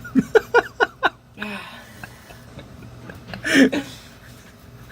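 A person laughing in a quick run of about five short bursts, then a louder vocal outburst about three and a half seconds in.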